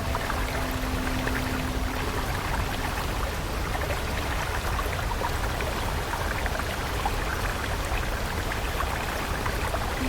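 Running water of a stream, a steady splashing trickle. A soft held music tone fades out about two seconds in.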